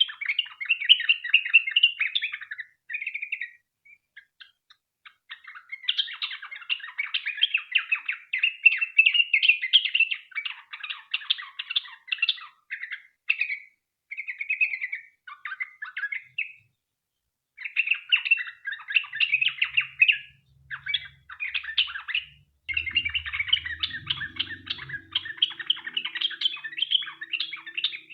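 Yellow-vented bulbul (trucukan) singing long, rapid chattering song phrases, with short pauses about four seconds in and again past the middle.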